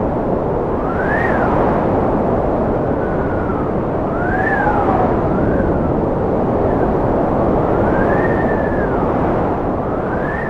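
Strong wind blowing steadily, with a whistling howl that rises and falls in pitch every few seconds.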